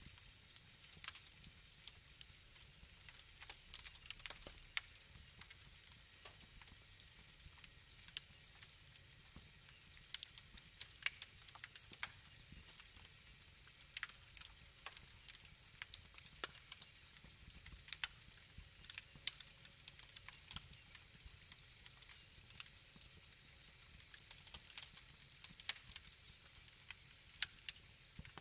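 Wood fire crackling quietly: irregular sharp pops and snaps, several a second at times, over a faint low hiss.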